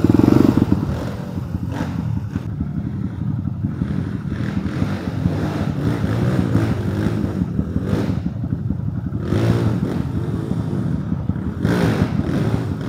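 Trail motorcycle engine running and revving up and down, loudest in the first second, with the pitch rising and falling again several times later on.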